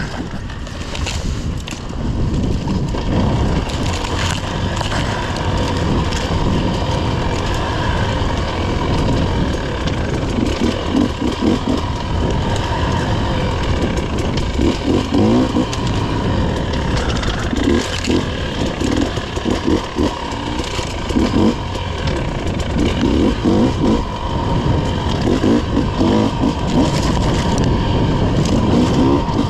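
Motorcycle engine running under a steady low rumble, revving up and down again and again as the bike is ridden along a trail.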